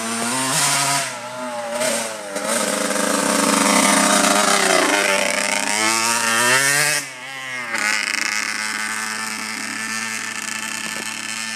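Dirt bike engine revving, its pitch climbing and falling several times, then dropping off sharply after about seven seconds and running on at a steadier, lower pitch.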